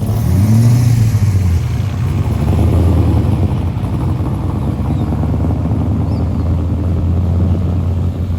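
A car engine running loud and steady, with a brief rise in revs about half a second in.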